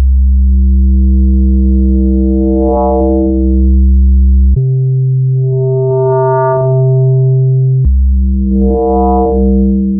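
Synthesizer bass of Arturia Pigments playing sustained notes built on a sine wave, with frequency modulation swept up and back down so that overtones swell in and fade out, making the tone grow buzzier and then smooth again. The note steps up in pitch about halfway through, then drops back near the end.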